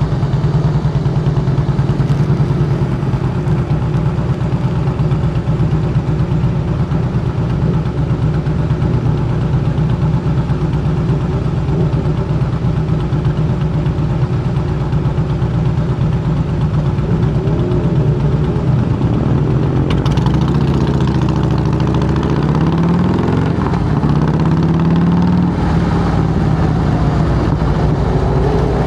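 A 2008 Harley-Davidson Softail Heritage Classic's V-twin idling loudly through Samson true-dual exhaust with fishtail tips. Its pitch rises and falls a little in the second half.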